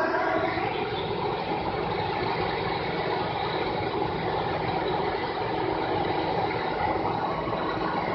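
Heavy vehicle engine running steadily, a continuous even drone with no changes in speed.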